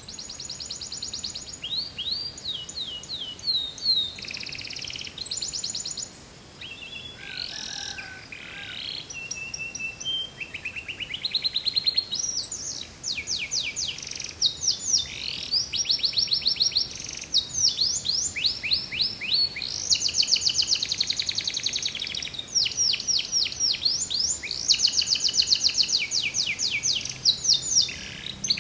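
Domestic canary singing a long, continuous song of fast trills, each a rapid run of the same note repeated many times, switching every second or two to a new trill, some higher, some lower.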